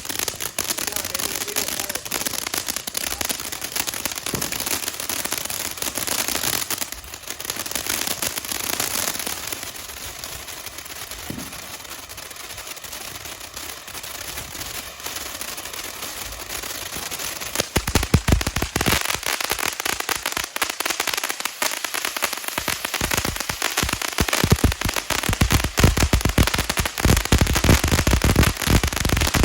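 A consumer firework fountain, Warrior's 'Maximum Security', burning with a steady spraying hiss. About 18 seconds in it breaks into dense, loud crackling pops that keep on.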